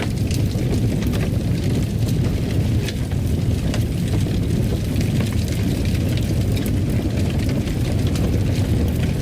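Wood fire crackling in a fireplace: a steady low rumble of the flames with many small, irregular pops and snaps.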